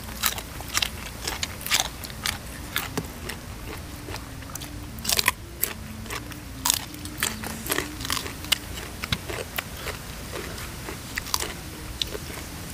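Close-up crunching and chewing of raw vegetables: crisp, irregular bites and chews of a raw long green bean.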